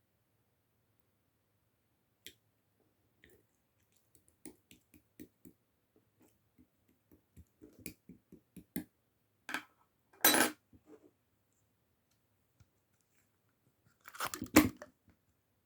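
Slime being squeezed and poked by hand: scattered small sticky clicks and pops that grow more frequent, with a louder squelch about ten seconds in and a cluster of squelches near the end.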